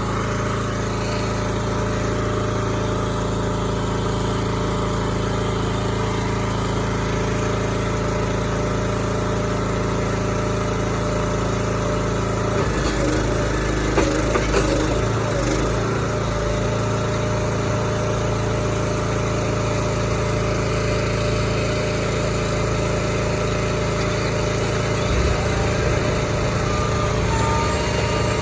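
A moving-container truck's engine runs steadily while its lift raises a storage pod. About halfway through there is a louder stretch of scraping and knocking as the pod is handled. Short reversing beeps begin near the end.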